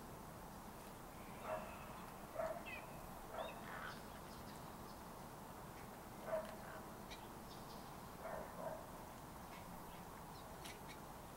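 Faint outdoor ambience: about six short, low animal calls spaced irregularly over a steady hiss, with a few tiny high chirps from small birds among them.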